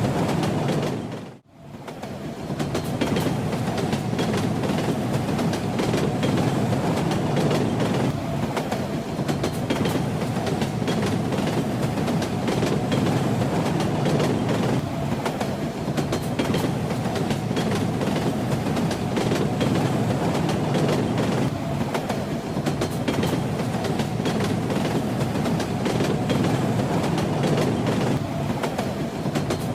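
Railway carriage running along the track: a steady rumble with wheels clattering and rattling over the rails. About a second and a half in, the sound briefly drops away and fades back in.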